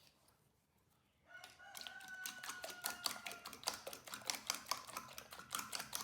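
A rooster crows once, a long, slightly falling call starting about a second in. It sounds over a steady run of quick, sharp clicks or taps, about four a second.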